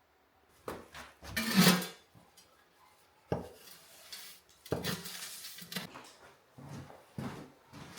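Pots and utensils being handled: a string of clinks and knocks with rustling between them, the loudest clatter about a second and a half in.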